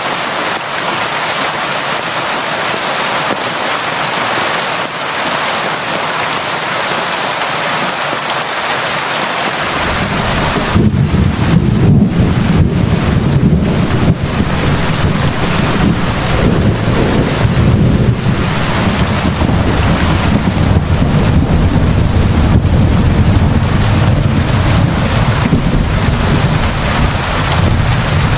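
Steady heavy rain hissing. About ten seconds in, a deep, continuous rumble of thunder sets in under the rain and lasts to the end.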